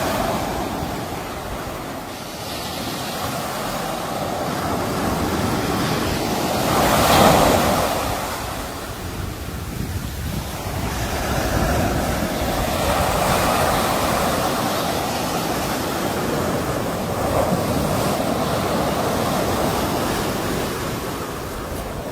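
Sea waves breaking and washing on the shore in a continuous rush that swells and ebbs, with the loudest break about seven seconds in.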